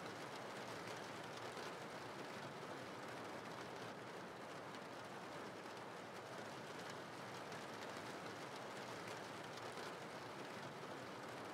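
Steady rain ambience: an even hiss of rainfall with fine drop patter.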